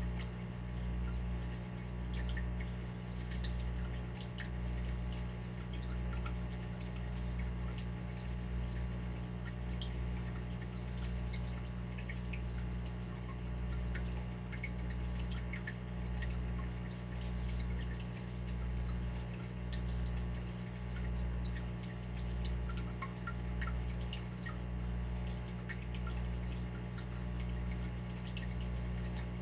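Water dripping and trickling, many small drops falling irregularly over a steady low hum that pulses evenly.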